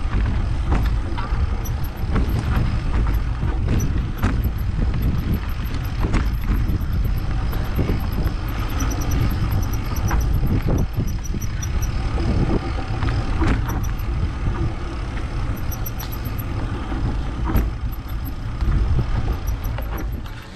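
Mountain bike riding over a rough trail, heard from a camera mounted on the bike or rider: a steady wind rumble on the microphone, with scattered knocks and rattles from the bike over bumps.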